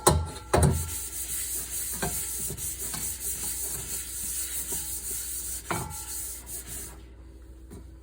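Kitchenware being scrubbed by hand: a steady scraping hiss that stops about seven seconds in, with ringing clinks of dishes near the start and again just before six seconds in.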